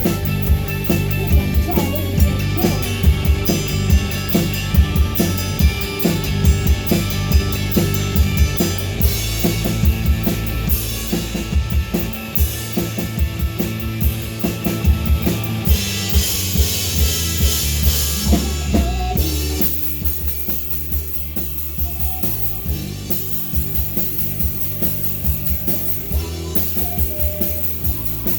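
Live rock band playing an instrumental passage, led by drum kit and bass with guitar. About two-thirds of the way through, the band drops to a quieter, sparser section while the drums keep the beat.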